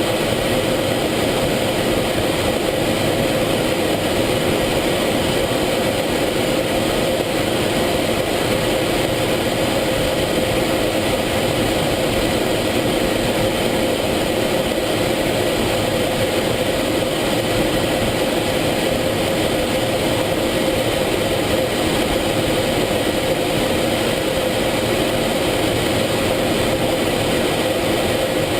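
Steady F-16 cockpit noise: the jet engine's drone mixed with rushing air, with a constant hum running through it and no change in pitch or level.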